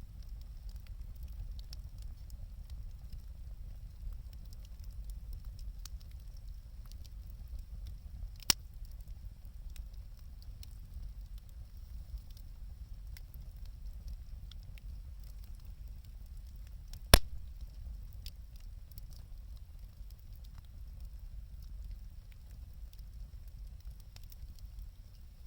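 Wood fire burning with scattered faint crackles and two sharp pops, the second, louder one about two-thirds of the way through.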